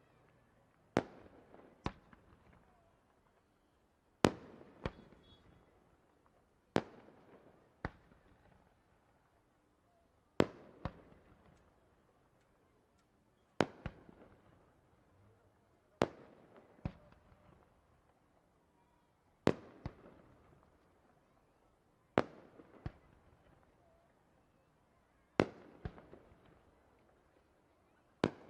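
Aerial firework shells bursting in a steady sequence, a sharp bang every two to three seconds, usually as pairs of bangs less than a second apart. Each bang trails off in a rolling echo.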